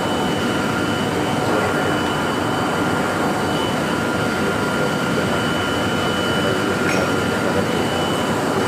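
Electric arc welding: the arc crackling and sizzling steadily without a break, with a faint steady high whine underneath.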